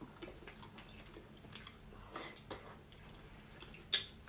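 Soft, wet chewing and lip-smacking of people eating roasted chicken by hand and gnawing meat off the bones, with small clicks throughout and one sharp click near the end.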